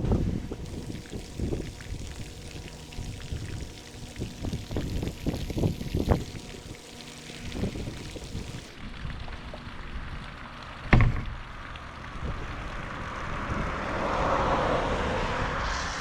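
Wind buffeting the microphone and rolling noise from a fat-tyre e-bike being ridden, in gusts. There is a single sharp knock about eleven seconds in, and a hiss swells near the end.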